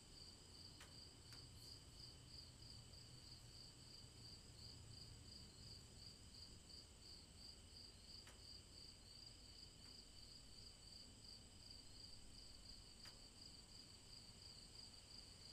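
Near silence, with a faint, steady high-pitched chirping that pulses about three to four times a second.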